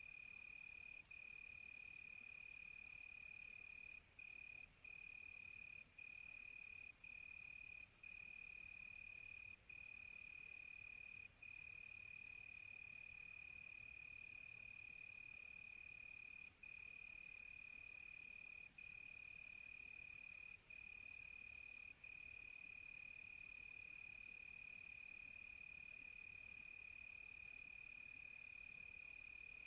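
Crickets trilling steadily on one unbroken high note that drops out for an instant every few seconds, over a fainter, higher insect hiss.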